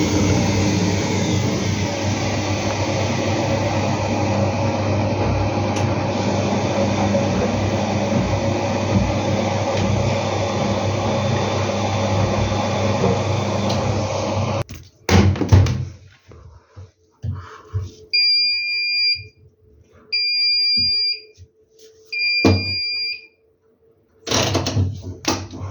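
Bosch washing machine spinning its drum at speed with a steady loud hum, which stops abruptly about 15 seconds in. After a few clicks the machine gives three beeps about a second long each, typical of its end-of-cycle signal, and a burst of handling noise follows near the end.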